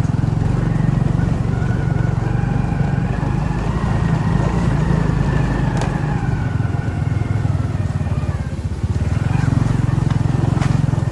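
Motorcycle engine running steadily, with a brief dip in level about nine seconds in.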